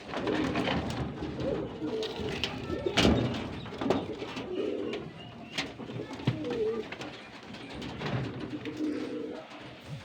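Birds calling with low, wavering, repeated notes, several calls overlapping. A few sharp knocks fall in between, the loudest about three seconds in.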